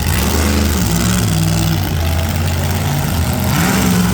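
Monster truck engine revving, its pitch rising and falling and climbing again near the end.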